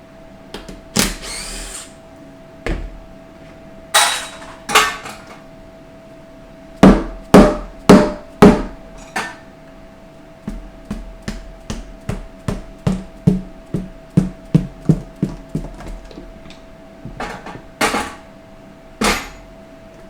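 Hand tools knocking and clanking on metal while removing the oil pan from a 4L60E transmission, loud single strikes first, then a run of quicker, lighter taps in the middle.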